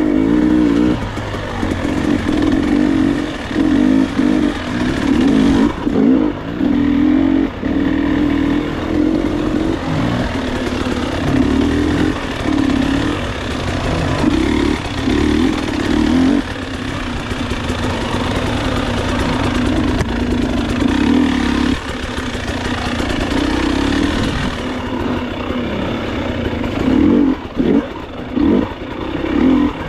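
Enduro motorcycle engine under load on a slippery trail, the throttle opened and closed over and over so the revs keep rising and falling.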